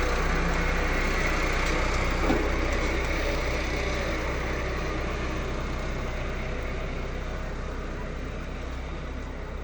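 A steady, engine-like mechanical running noise with a low hum, slowly fading. There is one short knock about two seconds in.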